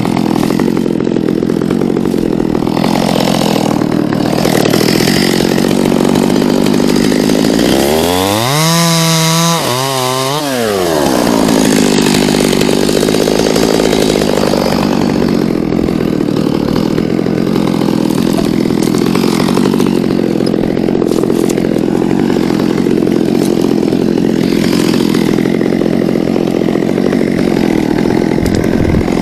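Two-stroke chainsaw running at high revs while cutting wood. About eight seconds in, the revs fall away to a low idle, then climb back up again a couple of seconds later.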